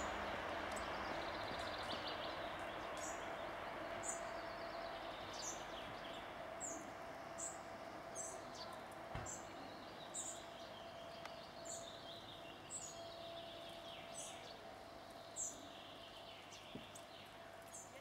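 Short, high, thin bird calls, each dropping slightly in pitch, repeating about once a second over a steady background hiss.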